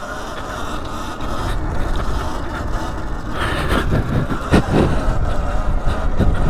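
Wind buffeting an outdoor microphone: a continuous rough rumble with a few brief louder bumps around the middle.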